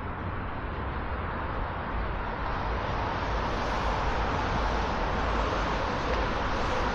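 Road traffic on a wide city boulevard: steady tyre and engine noise that grows gradually louder and brighter as vehicles approach.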